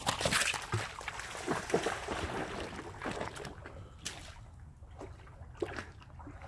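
A thrown rock splashes into a pool, followed by a German Shepherd wading and splashing through the water after it, the sloshing irregular and thinning out over the next few seconds.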